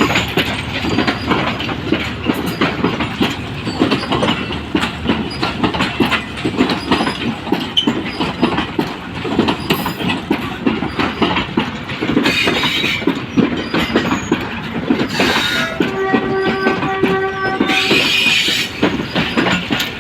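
A train's coaches passing at speed, their wheels clicking fast and steadily over the rail joints with a rolling rumble. About sixteen seconds in, a steady tone with several overtones sounds for about two seconds.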